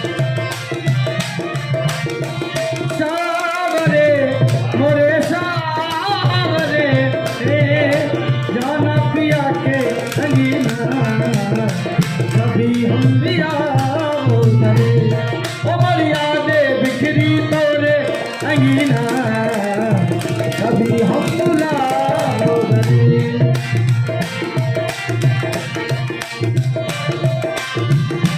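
Rajasthani folk song with a singing voice over a hand drum keeping a steady rhythm.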